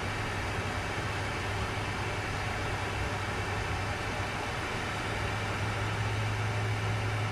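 Steady cockpit noise of a Learjet 60XR in flight: a continuous rush of airflow and engine noise with a constant low hum underneath.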